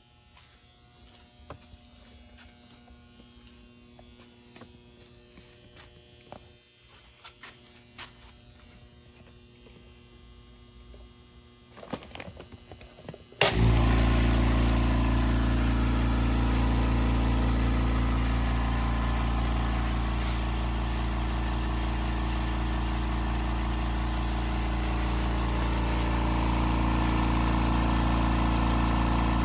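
Oil-less electric air compressor kicking on suddenly about thirteen seconds in and then running steadily with a loud motor hum, pumping up its tank. Before it starts there are only faint scattered clicks and knocks.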